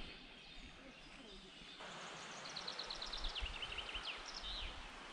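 A small songbird sings one phrase: a quick run of about ten repeated high notes, then lower notes and a short flourish. Under it is a steady outdoor hiss.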